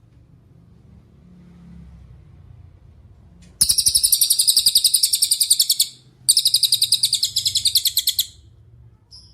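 Cililin songbird singing two loud, rapid high-pitched chirping trills of about two seconds each, a short pause between them, then one brief chirp near the end. The opening seconds carry only a faint low rumble.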